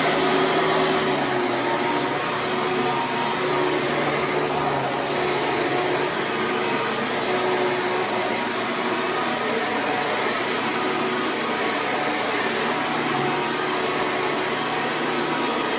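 Hoover Preferred vacuum cleaner running steadily while vacuuming a rug: an even motor hum and rush of air.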